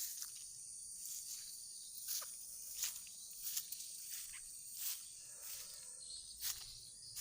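Steady high-pitched chirring of insects, with irregular sharp clicks or taps about once a second.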